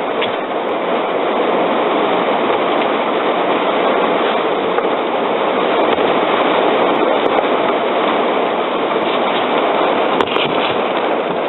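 Heavy rain falling steadily on the roof of a parked van, an even hiss-like patter with a few faint clicks.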